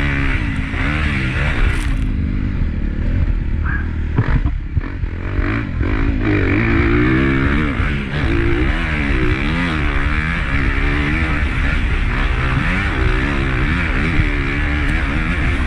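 Honda CRF250 four-stroke single-cylinder motocross bike engine heard from an onboard camera, revving up and down as it is ridden hard round the track. Its note keeps rising and falling with brief throttle cuts about four seconds in and again near eight seconds.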